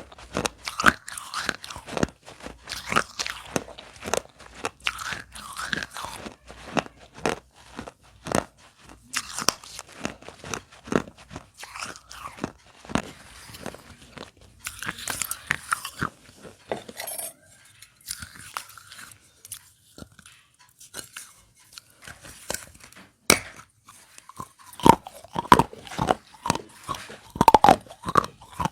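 Pieces of broken fired clay pot being bitten and chewed: many sharp, irregular crunches close to the microphone, with a sparser stretch a little past the middle.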